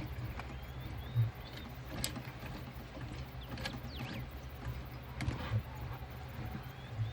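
A steady low hum under scattered soft clicks and rustles of fabric and sewing clips being handled, with a few faint short bird chirps.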